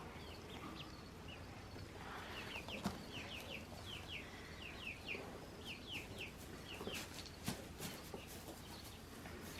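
Baby chicks peeping: a faint, steady run of quick, high cheeps, each sliding downward, with a couple of light taps.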